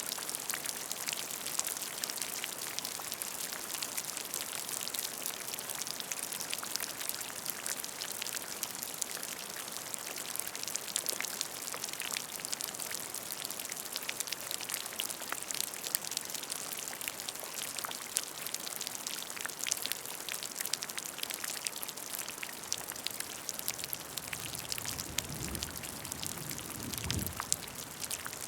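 Steady rain falling on a puddle: a dense hiss of many close drop splashes and patters. A brief low rumble comes in twice near the end.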